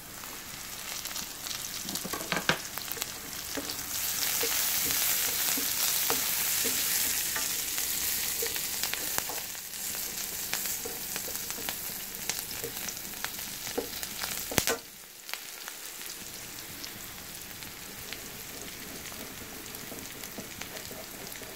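Curry leaves, onion, chilli and garlic sizzling in melted butter in a pan, stirred with a slotted spatula that scrapes and taps against the pan. The sizzle swells about four seconds in and then eases, and a single sharp knock comes about two-thirds of the way through.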